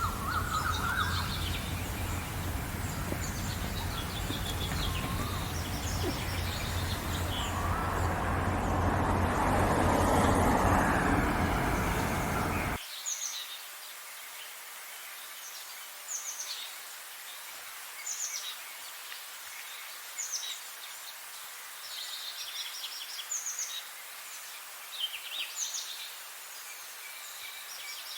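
Songbirds chirping and singing in short repeated phrases over a loud low background rumble that swells and then cuts off suddenly about halfway through, after which only the birdsong remains.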